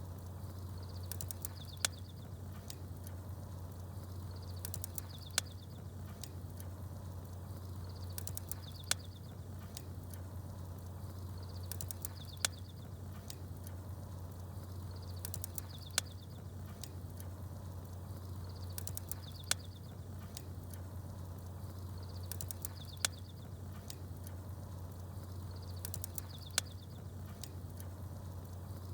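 Campfire crackling, with a sharp pop about every three and a half seconds, and small birds chirping in short high bursts. It sits over a steady low hum, and the whole pattern repeats exactly at that spacing, like a short loop.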